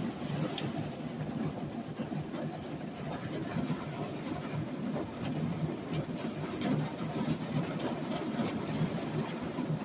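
A motor vehicle running: a steady engine and road rumble with scattered small rattles and clicks.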